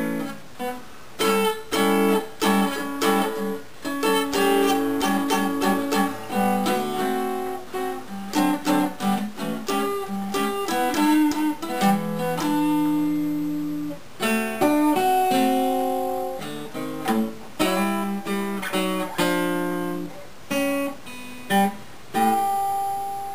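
Gibson L-48 archtop acoustic guitar played freely, mixing single plucked notes with strummed chords. Near the end a final chord is left to ring and fade.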